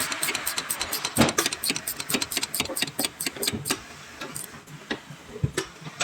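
Ratchet clicking quickly, about seven to eight clicks a second, thinning out to a few scattered clicks after about four seconds.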